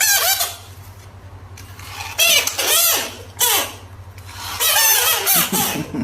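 An animal calling over and over: loud, high-pitched calls that rise and fall in pitch, in groups of several, over a faint steady low hum.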